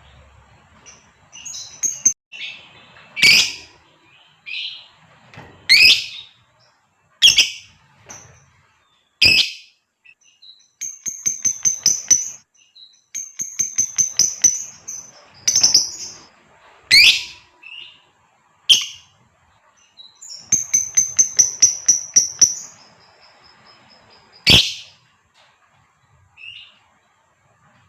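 Female lovebird calling: sharp, loud shrieks every second or two, with three runs of rapid, high chattering notes in between.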